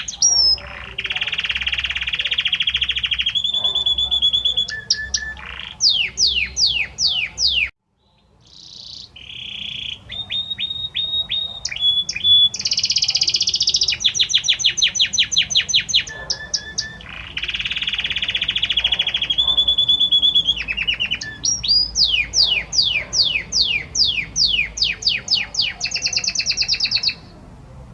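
Male domestic canary singing a long song of rapid trills and repeated sweeping notes, with a short break about 8 seconds in and the song ending just before the close.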